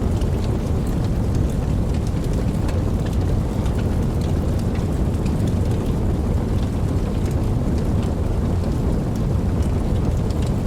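Steady rain with a deep, even rumble underneath and scattered drops ticking over it.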